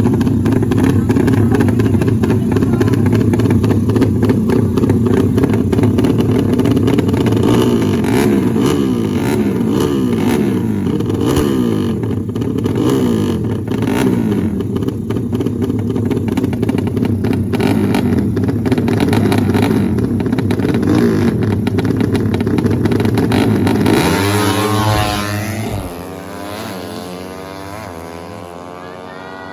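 Drag-race motorcycle engines running and revving loudly, their pitch sliding up and down over each other. About 24 seconds in, the pitch sweeps sharply upward as an engine accelerates hard, then the sound falls away to a quieter level.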